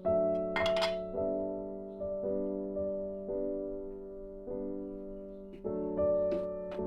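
Background piano music: slow, gentle chords struck about once a second, each fading before the next. A few brief sharp noises sound just under a second in and again near the end.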